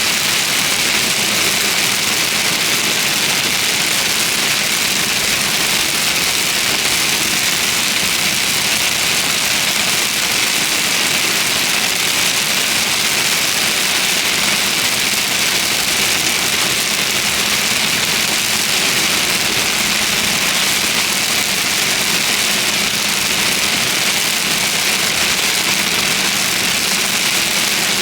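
Steady hiss of heavy rain and wet road noise around a car, with its engine's low hum running underneath throughout.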